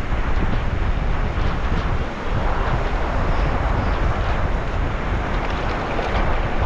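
Sea waves washing steadily, with wind buffeting the microphone as a low rumble.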